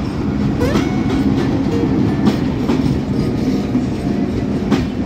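Diesel-electric locomotive passing at speed, its engine drone giving way to the rumble of the passenger coaches behind it. The wheels clack repeatedly over the rail joints.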